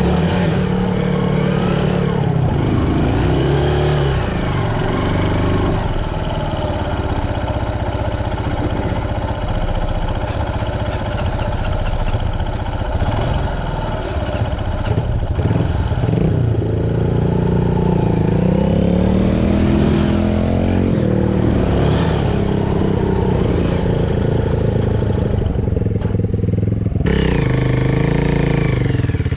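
Small dirt bike engine revving up and down over and over, working hard to climb a slippery muddy slope with little traction.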